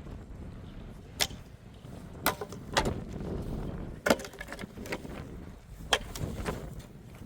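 A series of sharp, irregular knocks and clatters, about seven in all, over a steady low rumble.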